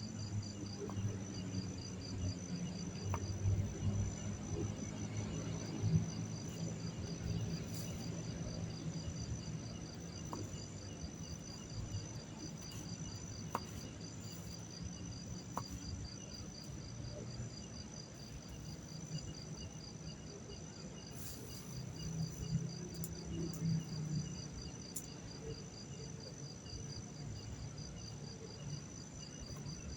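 Night insects, crickets by their sound, chirping in an even, rapid pulse over a steady high trill, with a low uneven rumble underneath.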